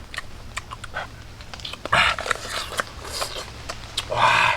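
Crunchy bites and chewing on a raw green mango, with two loud crunches about two seconds in and near the end, and small clicks of chewing in between.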